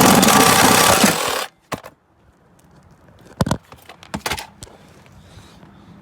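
Power saw cutting through a split exhaust pipe, loud with a fast rattle, stopping abruptly about a second and a half in; a few sharp metallic knocks follow.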